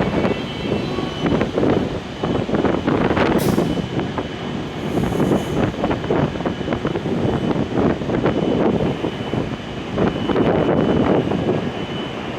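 W7 series Shinkansen train at a station platform: continuous, uneven rumbling noise with a faint steady high-pitched tone, and a brief hiss about three seconds in.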